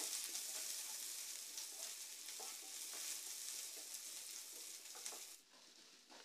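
Chopped onions and tempering spices sizzling faintly in oil in a non-stick frying pan while being sautéed, with a wooden spatula stirring and scraping the pan now and then. The sound cuts off suddenly near the end.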